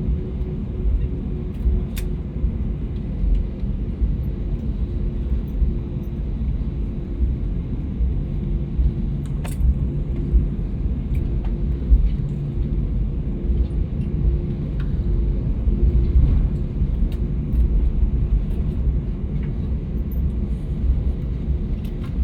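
Jet airliner cabin noise while the plane taxis after landing: a steady low rumble with a faint hum that pulses on and off about once a second, and a few faint clicks.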